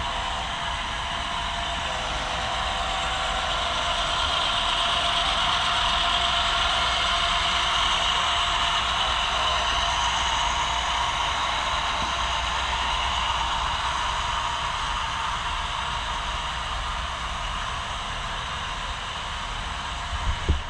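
HO scale model train running along the layout track: a steady rolling hiss and motor hum that grows louder over the first several seconds, then slowly fades. A brief knock comes near the end.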